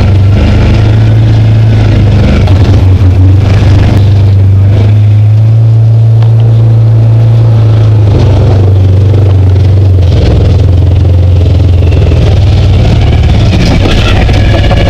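Side-by-side UTV engine running loud and steady under way on the trail, its drone rising a little in pitch about four seconds in and settling back around ten seconds in.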